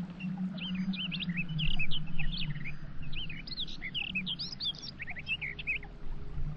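Small birds chirping, many quick rising and falling chirps overlapping, over a low steady hum.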